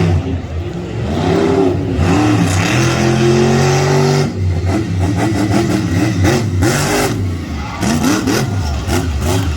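A car engine revving up and down over and over, its pitch climbing and falling in quick swings, with one longer high hold partway through.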